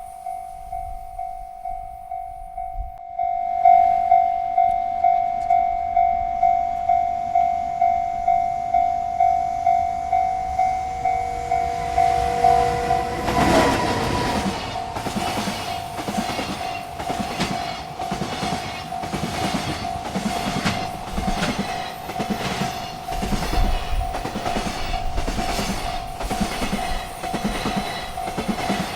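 Railroad crossing warning bell ringing in steady strokes about twice a second. About halfway through, a freight train arrives and rolls past, its wheels clacking rhythmically over the rail joints while the bell keeps ringing.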